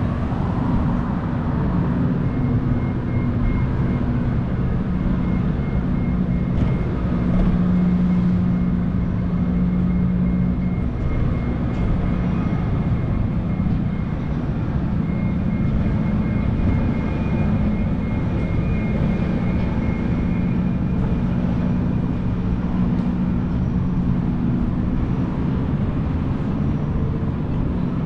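Steady city street noise: vehicle engines running with a low, even hum and a faint high tone that comes and goes.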